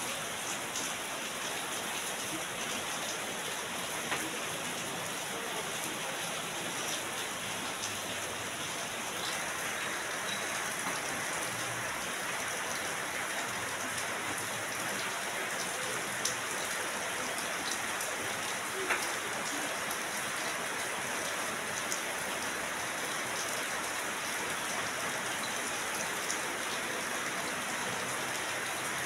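Steady rain falling, an even hiss with a few louder single drop taps standing out.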